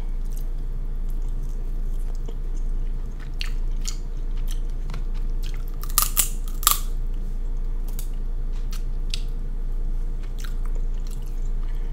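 Close-miked chewing and biting of seafood boil, king crab meat, with small wet clicks throughout. Three sharp cracks come a little past halfway.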